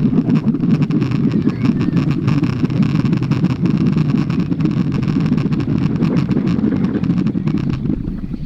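Firework burning under water in a kettle, churning the water with a loud steady low rush and rapid crackling. It dies away near the end.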